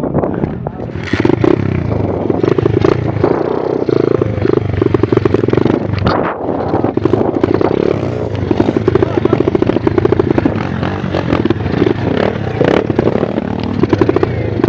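A 125 cc pit bike's single-cylinder engine revving hard, its pitch rising and falling, with clattering and scraping throughout.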